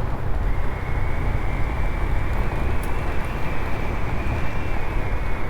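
Honda CT125's small single-cylinder engine running steadily while riding, mixed with a constant rush of wind and road noise.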